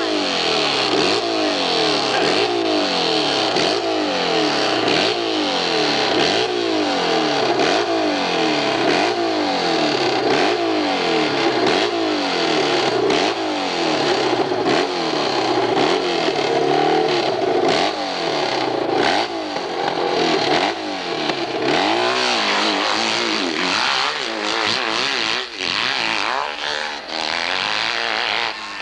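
Hillclimb racing motorcycle engine revving hard, its pitch rising and falling about once a second, then more irregularly near the end.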